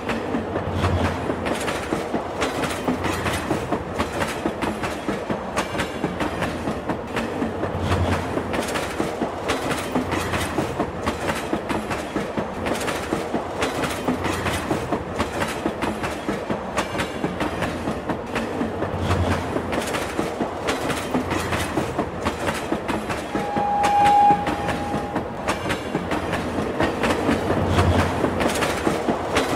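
Passenger train running at speed, heard from beside the coaches: a steady rumble of wheels on rail with a repeating clickety-clack over the rail joints. Late on, a single short horn note sounds once for about a second.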